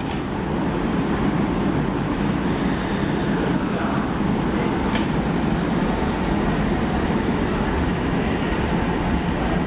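Odakyu electric commuter train pulling out of the platform, a steady rumble of its motors and wheels on the rails as it moves off. One sharp click about five seconds in.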